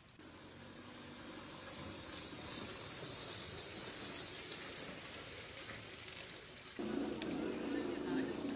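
Rushing floodwater: a steady hissing rush that swells over the first two seconds. About seven seconds in it changes abruptly to a lower, fuller rush.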